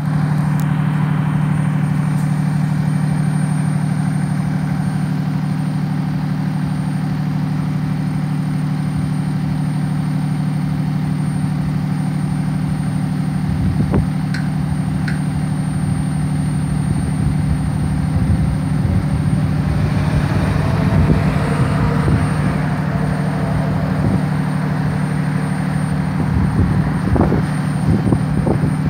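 Fire department ladder truck's diesel engine running steadily with a deep, even hum. A faint rising whine comes in about twenty seconds in, and there are a few sharp knocks near the middle and near the end.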